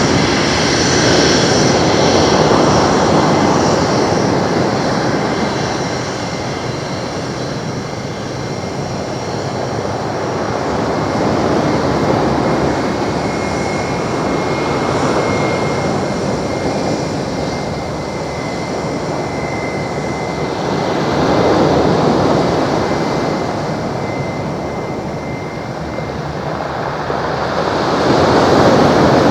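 Airbus A320 jet engines running, a broad jet roar with a thin steady whine over it. The noise swells and fades several times.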